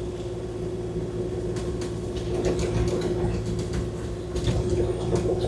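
Kubota KX040-4 mini excavator's diesel engine running under work with a steady whine over the low rumble, and scattered light knocks and rattles.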